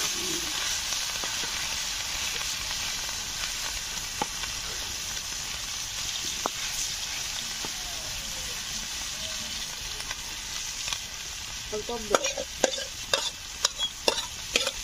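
Masala-coated fish roe shallow-frying in oil in a black iron kadhai: a steady sizzle, with a metal spatula pressing and turning the roe in the pan. A run of sharp pops and clicks comes in the last few seconds.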